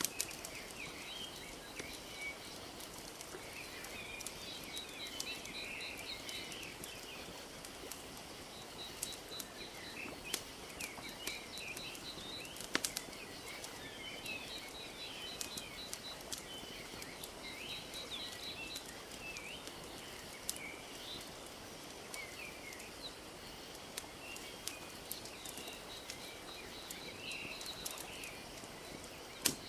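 Wood fire crackling with scattered sharp pops, the two loudest about 13 s in and near the end, over gently lapping lake water. Small birds chirp and repeat a quick trill on and off throughout.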